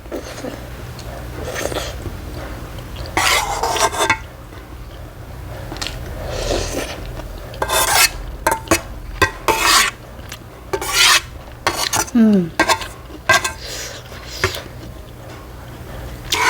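Eating utensils clinking and scraping against a dish in short, irregular strokes while ramen is being eaten.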